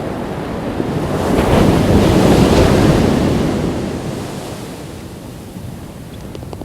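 Ocean waves breaking on a beach, with wind on the microphone. One wave swells about a second in, peaks for a couple of seconds and then washes away and fades.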